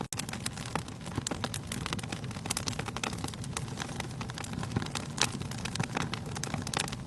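Wood fire burning in a fireplace: a dense, irregular crackling of many sharp pops over a low steady rumble of flame, with a few louder pops. The sound cuts out for a split second right at the start.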